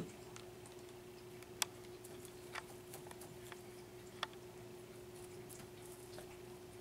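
Faint, scattered light clicks and taps of a young kitten playing with a small toy, three of them sharper, over a steady low hum.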